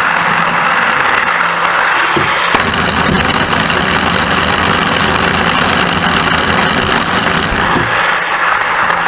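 A train running with a steady rushing noise. A sharp click comes about two and a half seconds in, and a deeper rumble joins it until near the end.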